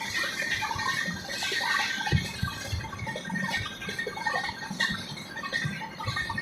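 Inside a moving train: irregular clatter and knocks, with a few low thumps.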